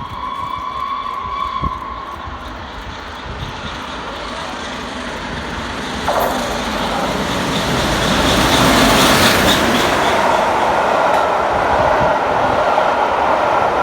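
Peppercorn A1 steam locomotive 60163 Tornado sounding a steady whistle for about two seconds, then its train coming by, getting sharply louder about six seconds in and staying loud.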